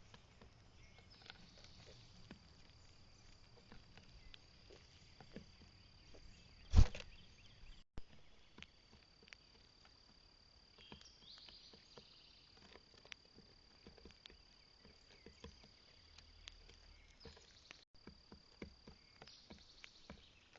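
Steady high-pitched trill of crickets or similar insects, with scattered faint ticks and one loud thump about seven seconds in.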